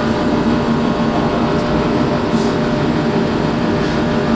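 Steady machine drone with a constant hum, holding level throughout.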